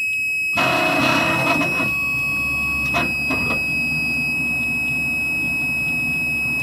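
Water flow monitor's alarm buzzer sounding one continuous high-pitched tone: the warning that the CO2 laser is running with no cooling water flowing. A low hum comes in underneath about half a second in.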